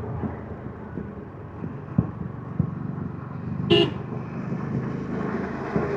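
Yamaha MT-15's single-cylinder engine running steadily on the stock exhaust while riding. About two-thirds of the way through, a vehicle horn gives one short toot.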